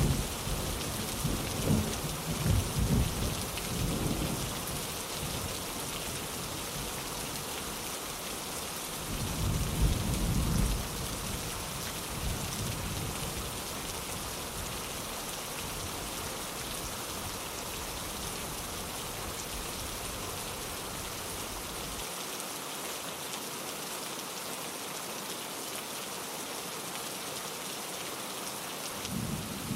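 Steady rain with thunder: low rumbles fade out over the first few seconds, another rolls in about ten seconds in, then the rain carries on alone.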